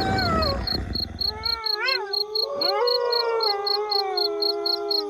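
A wolf pack howling in chorus: several long howls overlap, some held and some sliding down in pitch, with one quavering up and down about two seconds in. A low rumble cuts off about a second and a half in, and a fast, high pulsing of about four beats a second runs underneath.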